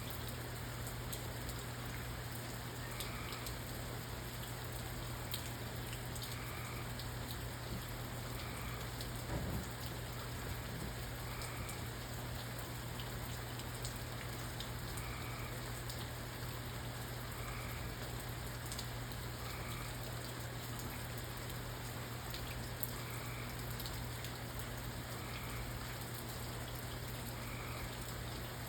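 Steady rain falling, with individual drops ticking against a surface. A faint short call repeats every couple of seconds, and a low steady hum runs underneath.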